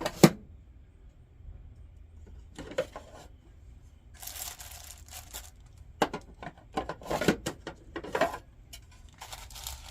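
Rummaging through boxes and paper packets of lantern mantles. A sharp knock comes at the start, then scattered clicks and clatters with bursts of rustling paper and cardboard.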